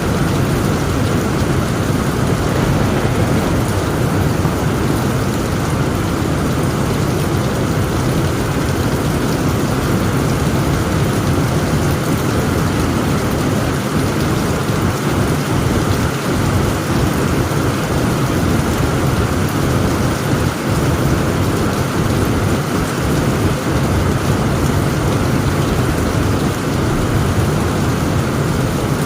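Heavy rain falling steadily on a tent roof, with a low rumble of thunder underneath.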